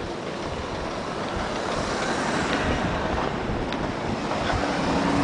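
Wind rushing over the microphone in a snowstorm, swelling gradually. Near the end a car engine's low steady hum comes in.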